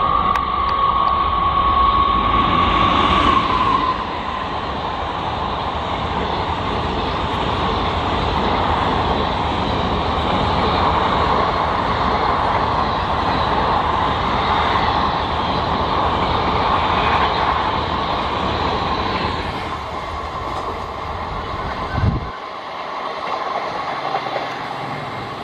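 A WAP-4 electric locomotive's horn holds one steady note as the express approaches, ending about three and a half seconds in. Then comes the loud rumble and wheel clatter of the coaches passing at speed, which thins out after a short thump near the end as the train draws away.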